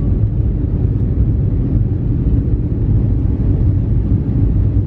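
Steady, loud, low rumble of a jet airliner's engines and airflow heard from inside the passenger cabin.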